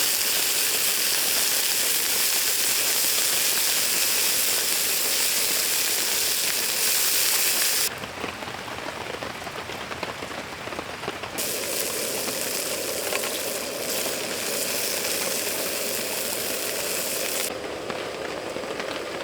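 Steady rain falling, an even hiss that drops abruptly to a quieter rain sound about eight seconds in and shifts suddenly again twice after that.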